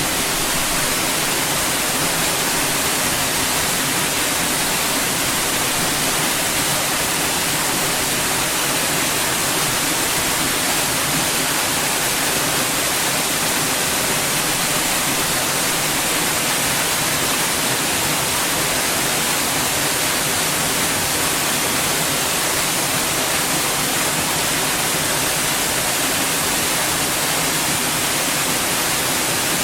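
Steady white noise, an even hiss that does not change, with its energy weighted toward the high end.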